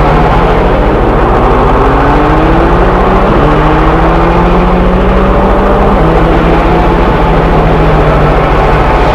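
Train's engine running loud and steady, its pitch rising over the first few seconds and then settling, with small steps in pitch about three and six seconds in.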